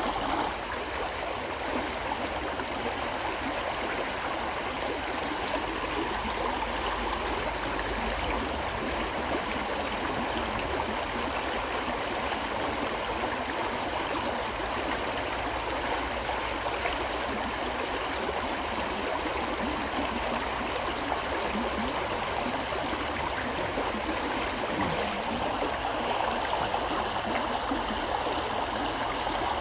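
A forest river flowing, a steady, continuous rush and gurgle of water.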